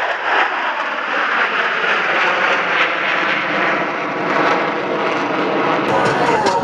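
Jet noise from Boeing F/A-18 Super Hornets in flight: a loud, steady rushing sound. The sound changes abruptly about six seconds in.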